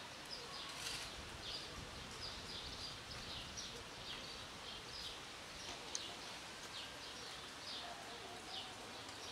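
Outdoor ambience in which a small bird chirps over and over, about two to three short high chirps a second, over a steady faint background hiss.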